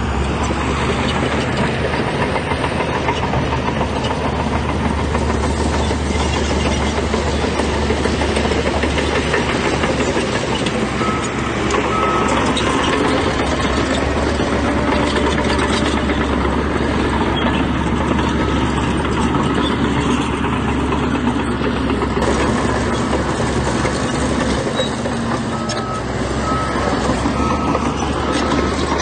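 Heavy diesel construction machinery running steadily under load, with a reversing alarm beeping in short runs twice, about eleven seconds in and again near the end.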